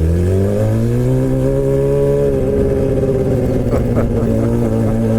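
Suzuki GSX-R600 inline-four engine through a straight-piped M4 exhaust with no catalytic converter, pulling: the revs climb over the first second, hold, then ease back to a steady lower pitch a little after two seconds in.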